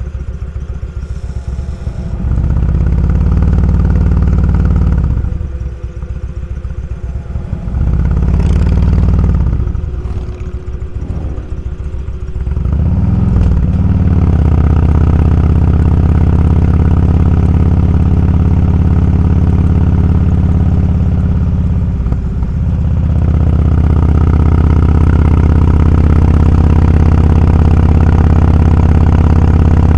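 Motorcycle engine running under way, loud and close. Its speed drops and climbs back several times in the first half as the throttle is eased off and opened again, then it runs steadily at cruising speed, with one brief dip in the second half.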